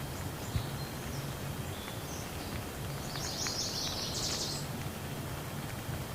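Steady rain falling, with scattered faint drip taps. A bird chirps in a short burst of high notes about three and a half seconds in.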